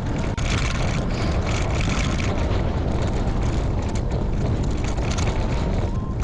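Strong wind buffeting the microphone of a moving bicycle, a steady, loud, deep rumble with a hiss over it from riding into a stiff headwind.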